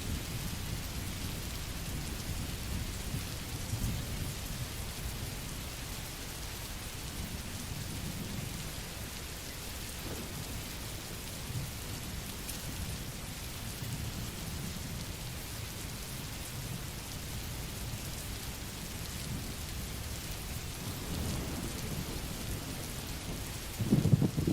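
Steady rain hissing, with a low rolling rumble of thunder underneath that swells and fades and grows louder near the end.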